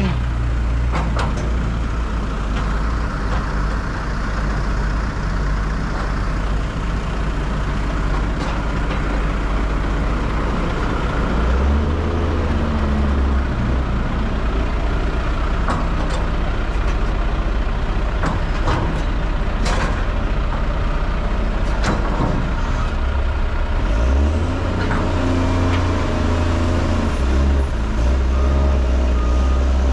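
Heavy diesel engine running steadily, rising in load twice, with a few sharp metal clanks while a shipping container is lifted off a truck trailer.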